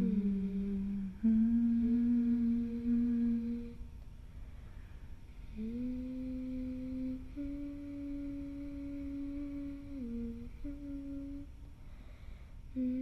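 A voice humming a slow melody of long, held notes, several seconds each, with short pauses between phrases.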